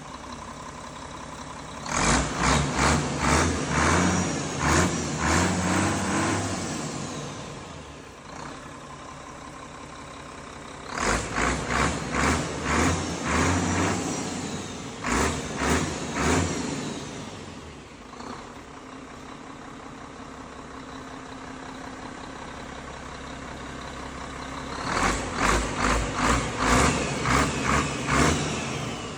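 An engine running steadily, broken by three loud spells of rapid, rhythmic pulsing at about two to three beats a second: one a couple of seconds in, one in the middle and one near the end.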